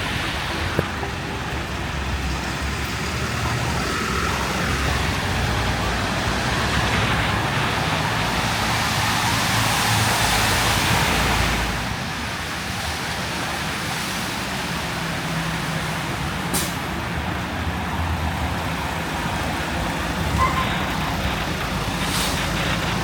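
Street traffic with heavy vehicles running by, over a rushing noise that swells and then drops off sharply about twelve seconds in.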